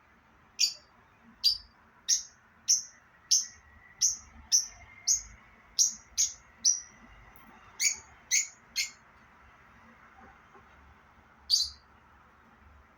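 Parrot giving short, sharp high chirps, about fourteen in quick succession roughly every half second, then one more after a pause near the end.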